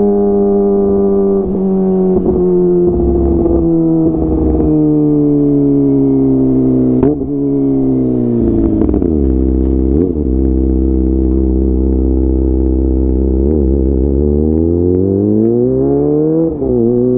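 Kawasaki ZX-25R's inline-four engine through a DX Generation GPR full-system exhaust, ridden at an easy pace. The engine note falls slowly for the first half, with brief breaks about seven and ten seconds in, then holds steady. Near the end it climbs again, with a short dip partway up.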